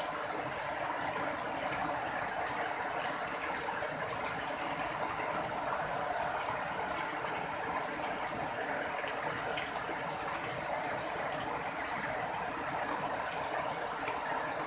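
Heavy rain falling steadily onto standing floodwater: a dense, even hiss of drops striking the water.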